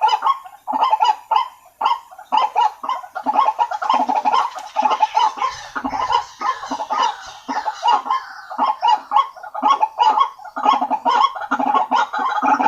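White-breasted waterhens (ruak-ruak) calling: a dense run of short, rapidly repeated notes, several a second, some overlapping. This is a lure-call recording.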